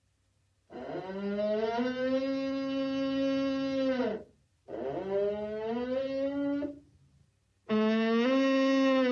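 Cow mooing: three long, drawn-out moos, the first about three and a half seconds long and the later two shorter.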